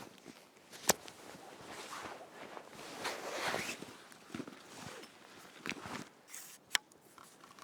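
Footsteps crunching through snow, uneven, with two sharp clicks, one about a second in and one near the end.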